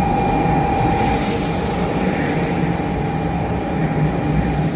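Hello Kitty Shinkansen, a 500-series bullet train, running into the station platform. A steady rushing noise runs under a single steady tone that stops near the end.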